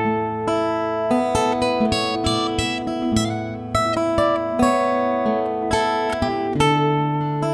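Acoustic guitar music, picked and strummed notes in changing chords.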